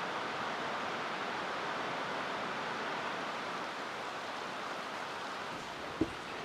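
Steady rushing noise with no tone or rhythm, easing off slightly over the last couple of seconds, and a single short thump about six seconds in.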